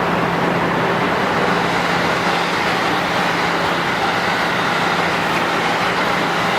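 JR 103 series resistor-controlled electric train running, heard from inside the car: a steady rumble of wheels on rail with a low steady hum and a faint traction-motor tone.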